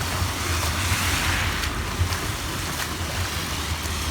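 Storm runoff rushing steadily into a street catch basin, with wind rumbling on the microphone.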